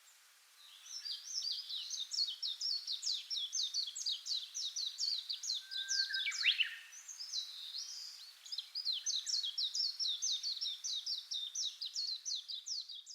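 A small songbird's rapid series of high chirps, several quick falling notes a second, pausing briefly a little past the middle and then carrying on.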